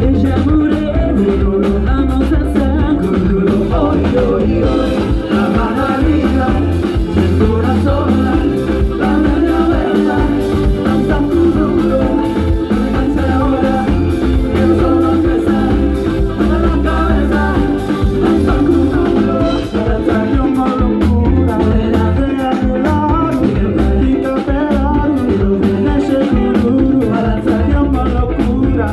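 Live band playing a Latin-style song with singing over bass and a steady drum beat.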